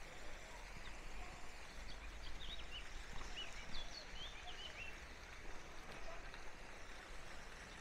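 Steady outdoor background noise, with a small bird chirping in a quick run of short high notes about two to four seconds in.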